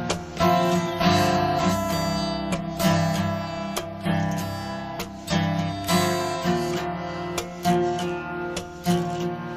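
Solo acoustic guitar strumming ringing chords, played live, with a sharp strum every second or two and no voice.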